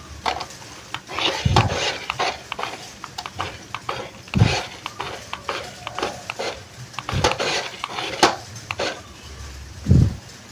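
Hard plastic clattering and knocking from a toy RC drift car, with many sharp clicks and four duller thumps spread through.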